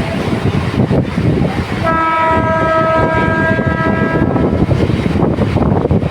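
Noise of a moving train, with a train horn sounding one long steady blast about two seconds in that lasts roughly two and a half seconds and fades away.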